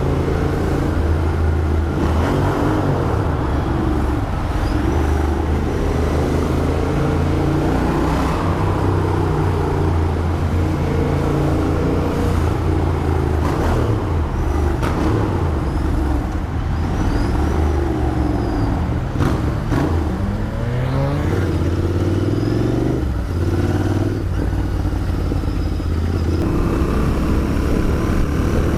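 Royal Enfield Interceptor 650's parallel-twin engine running while riding, its pitch rising and falling with the throttle and gear changes, with a strong sweep of revs about two-thirds of the way in.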